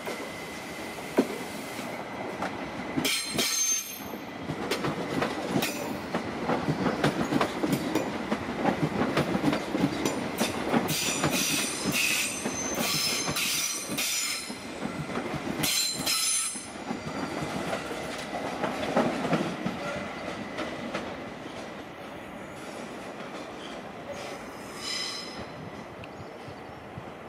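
BLS RABe 528 'MIKA' electric multiple unit running out over curved pointwork. Its wheels squeal high-pitched in several bursts, strongest about a third to halfway through, over a steady rolling rumble and clacking over the points.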